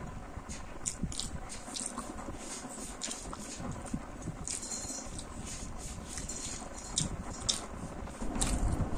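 Close-miked chewing of rice and boiled egg, with wet mouth clicks and smacks at irregular intervals, a little louder near the end.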